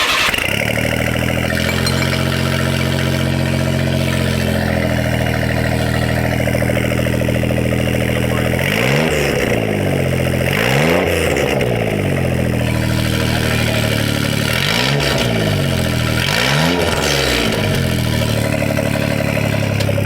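1999 Suzuki Carry kei truck's small three-cylinder engine running through a custom exhaust with a small muffler: it idles steadily with a deep tone, like a boiler, then is revved four times in short blips that rise and fall, in two pairs starting about nine seconds in.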